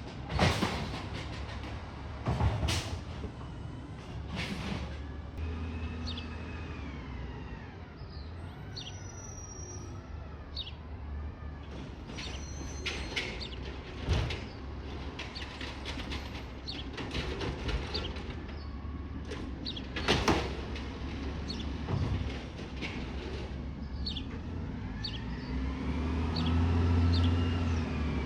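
Garbage truck working: engine running under a whine that rises and falls, with several sharp loud bangs, and the engine revving up louder near the end.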